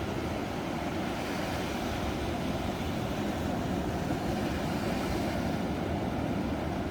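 Ocean surf: a steady, deep rush of breaking waves, swelling slightly in the middle and easing off near the end.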